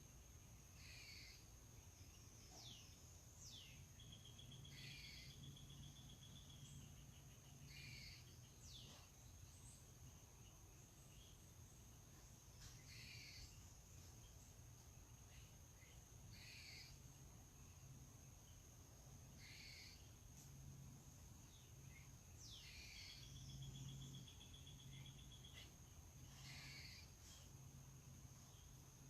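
Faint songbirds calling: short chips and down-slurred whistles repeat every few seconds, with a short even trill twice. Behind them runs a steady high-pitched insect drone.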